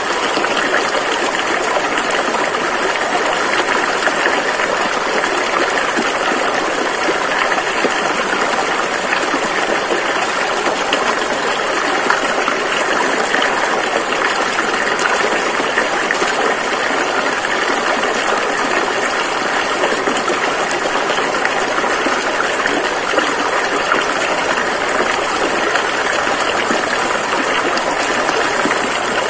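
Rushing river water flowing steadily over rocks as a constant, dense roar of splashing.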